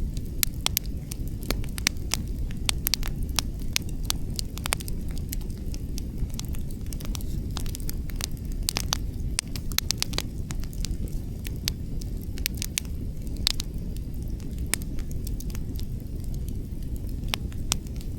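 Wood fire burning outdoors: a steady low rumble of flames and wind with frequent sharp, irregular crackles and pops from the burning logs.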